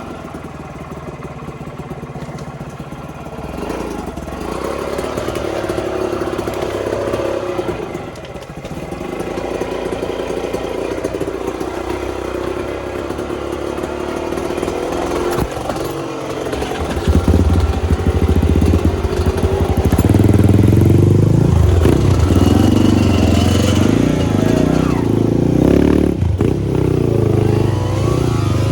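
Off-road trail motorcycle engine running and revving up and down unevenly, getting louder about two-thirds of the way through.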